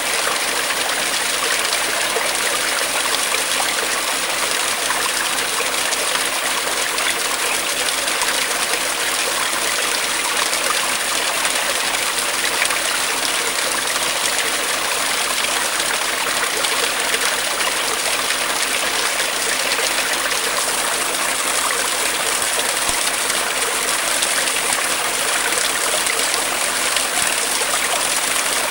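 Brook water running and trickling steadily, an even rushing with no change in level.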